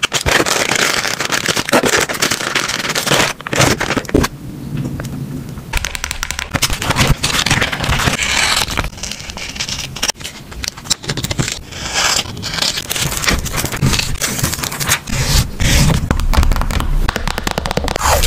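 Packaging being handled during an unboxing: irregular crinkling, crackling and rustling, with scrapes and small knocks, and a brief lull a few seconds in.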